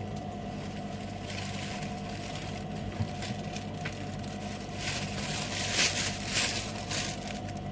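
Grapes being handled and eaten from their bag: several short bursts of crackly, rustling noise in the second half, over a steady low machine hum.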